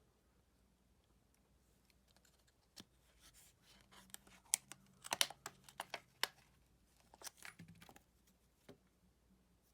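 Packaging being unwrapped and handled by hand: a run of small crackles and clicks that starts about three seconds in, comes thickest in the middle, and thins out near the end.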